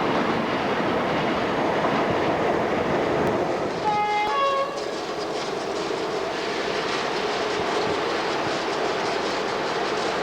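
British AC electric locomotive-hauled train passing with a steady rumble and wheel clatter. About four seconds in comes a short two-tone horn blast, two different notes one after the other, lasting under a second.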